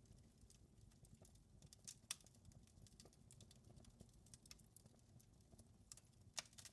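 Wood fire crackling in a fireplace: irregular sharp pops and snaps over a faint low rumble of the flames, with a louder pop about two seconds in and another near the end.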